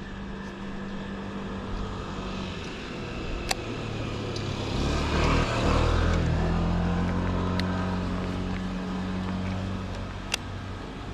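A motor vehicle's engine and tyre noise swelling as it passes, loudest about halfway through and then fading. Three sharp clicks stand out over it.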